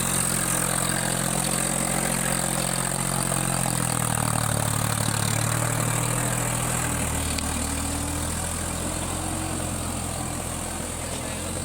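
Tractor engine running steadily at low revs, its speed dropping a little about seven seconds in.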